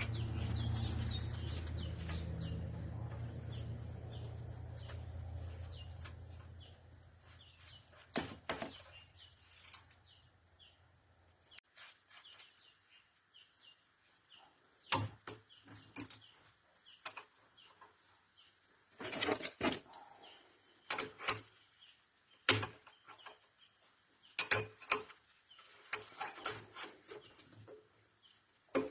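Scattered metal clinks and short scrapes of hand tools on engine parts, in separate bursts with quiet gaps between them. A low hum fades away over the first several seconds.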